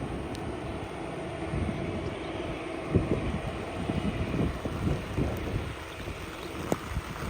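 Wind buffeting the microphone in irregular gusts, over a steady low outdoor rumble.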